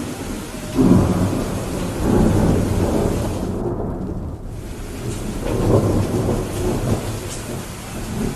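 Steady rain hiss with rolling thunder rumbling low. The rumbles swell about a second in and again just past the middle. The rain hiss cuts out briefly a little before halfway.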